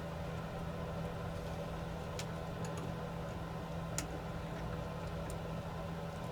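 A steady low hum with a few sharp, light clicks of small tools on the drone's small plastic and metal parts; the loudest click comes about four seconds in.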